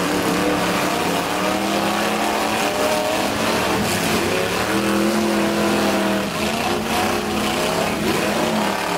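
Engines of antique-class demolition derby cars revving hard, several held at high revs for a second or two at a time, with the pitch rising and falling as they rev and back off.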